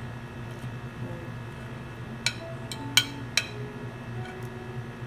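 Cutlery clicking against a plate three times in quick succession, the middle click the loudest, over a steady low hum.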